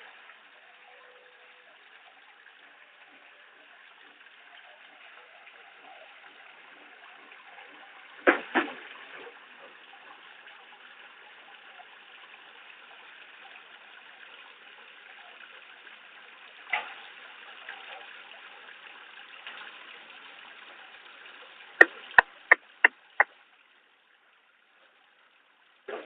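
Steady splashing rush of water at a fish pond, broken by a sharp knock about a third of the way in, another about two-thirds in, and a quick run of sharp clicks near the end, after which the sound cuts out.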